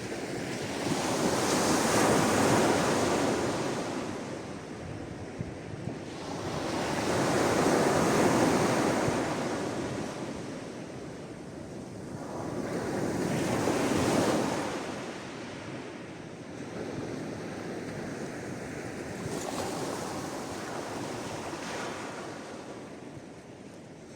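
Sea waves washing in one after another, each a rushing swell that builds and fades. Three larger waves come about six seconds apart, then smaller, gentler ones near the end.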